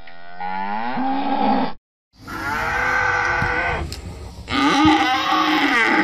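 Cow mooing: three long moos in a row. The first cuts off abruptly just under two seconds in; the next starts after a short gap, and the third begins about four and a half seconds in.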